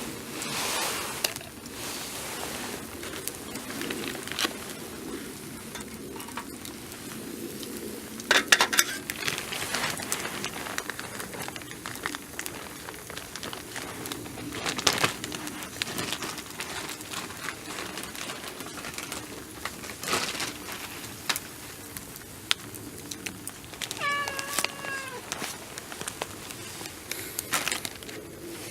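A cat meows once, a short call about 24 seconds in. Scattered clicks and knocks sound throughout, the loudest a cluster about 8 to 9 seconds in.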